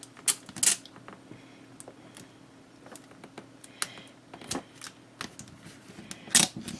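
Scattered small clicks and light paper rustles from hands handling paper and a roll of washi tape, the sharpest clicks just after the start and near the end.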